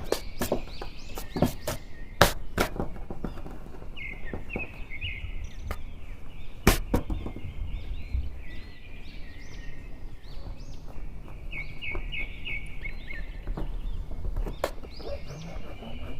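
Birds chirping in quick repeated runs, with sharp taps and knocks now and then, one louder knock about halfway through.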